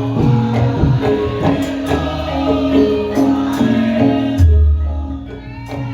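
Javanese gamelan music for a lengger dance: pitched metal percussion plays a stepping melody over a steady beat of strikes. About four and a half seconds in, a loud, deep low note sounds while the higher instruments briefly drop away.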